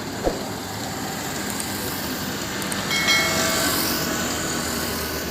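Sanman 6000 tractor running steadily, with a short knock near the start. About three seconds in, a brief high-pitched squeal and hiss rise over the engine.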